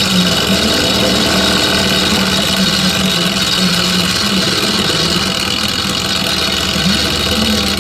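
Metal lathe running steadily while turning a steel stud, its motor and gearing giving a constant hum with several steady tones.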